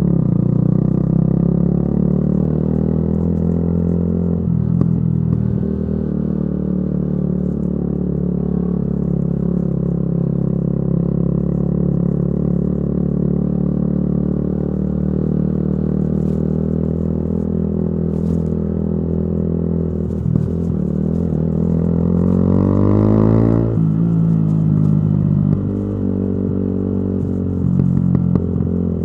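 A Yamaha YZF-R125's single-cylinder four-stroke engine running through a modified exhaust while the bike is ridden, holding a steady engine speed for most of the time. About three-quarters of the way through, the engine note climbs as it accelerates, then falls back sharply.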